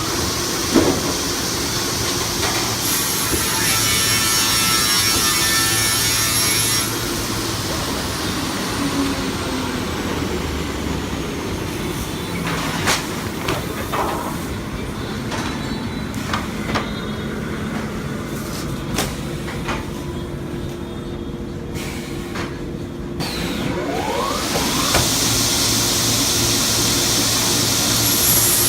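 Motorised branch-cutting machine running and cutting wood: a continuous mechanical clatter with sawing noise, the engine pitch rising briefly near the start and again near the end, and a few sharp knocks.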